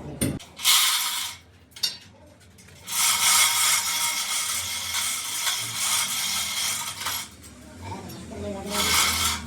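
Metal workshop tool noise: a short burst of hissing, scraping noise about a second in, a longer stretch of about four seconds in the middle, and another short burst near the end.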